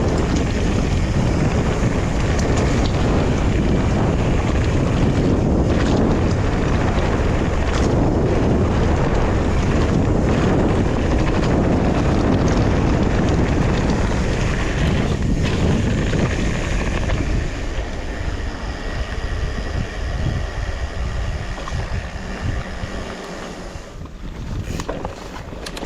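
Wind rushing over the microphone and the rumble and clatter of a fat-tyre mountain bike riding over a rough trail, with scattered knocks. It eases and becomes quieter about two-thirds of the way through.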